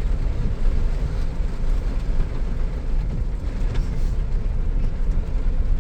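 Steady low rumble of vehicle cabin noise, with no distinct knocks or tones.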